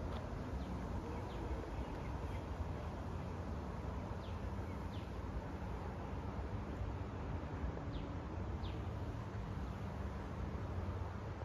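Bush ambience: a handful of short, high bird chirps, each sliding downward, spaced irregularly over a steady low rumble.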